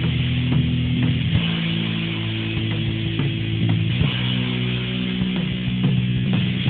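Guitar playing an instrumental passage: single plucked notes over ringing low chords at a steady level, with no singing.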